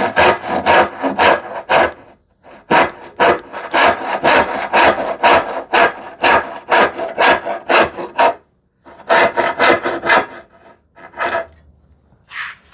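Tenon saw cutting across wood by hand in quick back-and-forth strokes, about four a second, pausing briefly twice and stopping near the end after one last short stroke.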